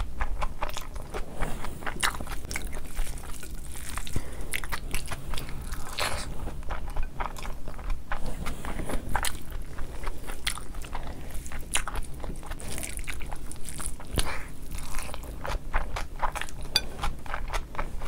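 Close-miked chewing of biryani eaten by hand: many sharp wet mouth clicks and bites, with the rice squished and scooped on the plate by hand between mouthfuls.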